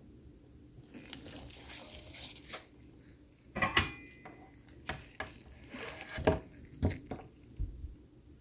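Small metal tools handled on a soldering workbench: a scratchy rustle, then a string of sharp clinks and taps.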